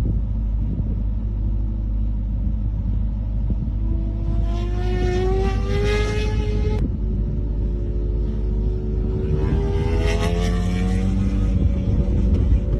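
Racing motorcycle engines on track: one accelerates with its pitch climbing for a few seconds, then breaks off abruptly, and another rises the same way in the second half, over a steady low rumble.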